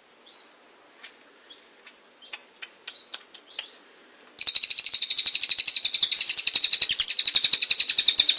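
A songbird giving short separate chirps that come faster and faster, then, about four seconds in, breaking into a loud, very rapid, even trill (a 'roll tembak') that runs for about four seconds.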